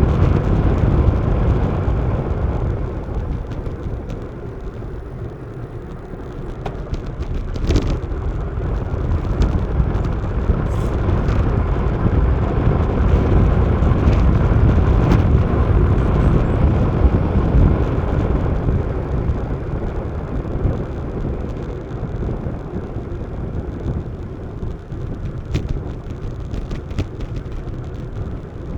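Wind buffeting an action camera's microphone, with road noise, while riding a road bike. The noise swells and eases, and a few sharp clicks and knocks come through, one clear one about eight seconds in.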